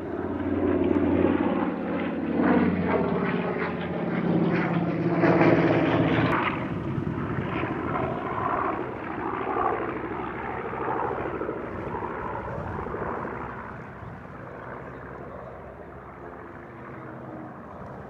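B-25 Mitchell bomber's twin radial piston engines droning as it flies past, loudest about five to six seconds in. The drone then drops away and fades steadily.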